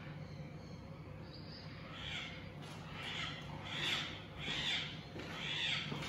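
A large bird calling harshly about five times in a row, starting about two seconds in, each call about half a second long.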